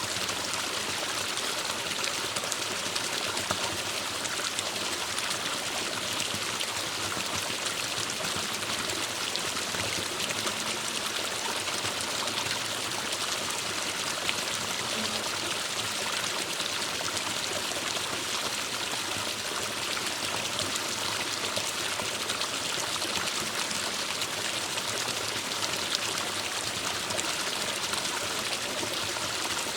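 Forest stream flowing steadily over rocks, an even rushing and trickling of water with small splashes throughout.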